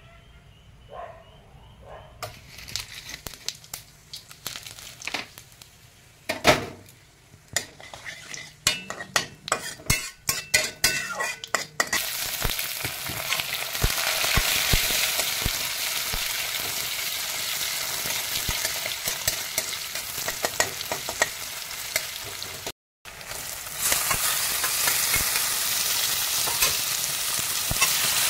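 Cumin seeds and a bay leaf spluttering in hot mustard oil in a steel kadai, with a spatula scraping the pan. Scattered pops grow denser, then turn into a steady sizzle about twelve seconds in. After a brief dropout near the end, turmeric-marinated prawns sizzle in the oil.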